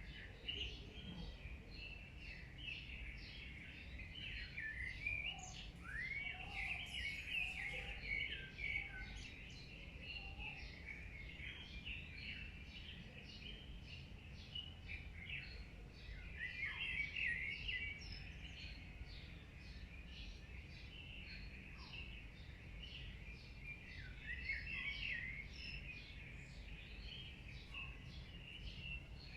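Many small birds chirping at once, a dense chorus of short, high, overlapping calls and trills, over a low steady rumble.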